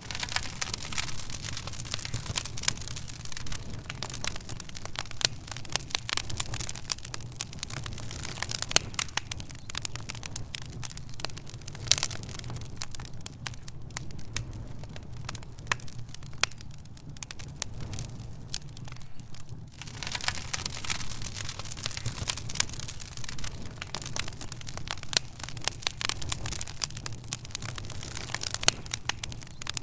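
Wood fire crackling in a fireplace: dense, irregular pops and snaps, busier in some stretches than others, over a steady low rumble.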